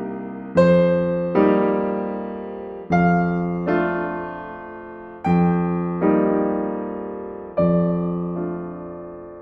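Slow, calm solo piano music: chords struck in pairs, each left to ring and fade before the next.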